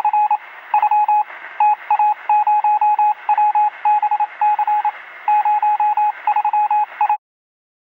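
A single mid-pitched electronic tone beeping in quick irregular groups of short and longer beeps, like Morse code, over a steady hiss with a narrow radio-like sound. It cuts off suddenly about seven seconds in.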